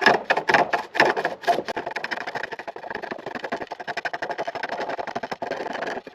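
Hand tool cutting a chestnut chair-leg tenon: repeated scraping strokes on the wood, about five a second at first, then quicker and closer together.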